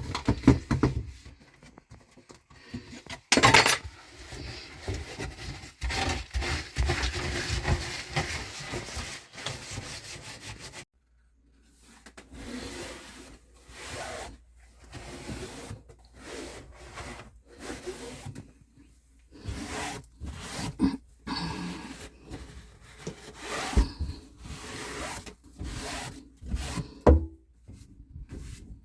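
Irregular rubbing and scrubbing, with scattered knocks and clatter of items being handled, while a kitchen sink and the cupboard under it are cleaned.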